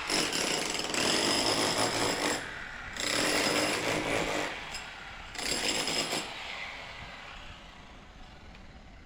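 A power tool running in three loud bursts, about two seconds, a second and a half and one second long, with a high whine in each. It stops after about six seconds.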